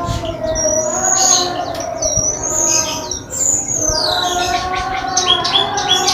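Caged songbirds, a cemperling and a Lombok white-eye (kecial), chirping and singing against each other: quick high chirps and falling whistled sweeps, over a steady low hum.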